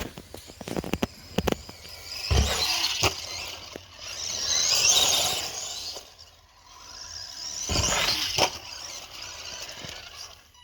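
HAIBOXING 16889 brushed-motor RC truck driving in two bursts, each a high-pitched motor and gear whine with tyre noise, the second one shorter. Several knocks and a thump come in the first two and a half seconds.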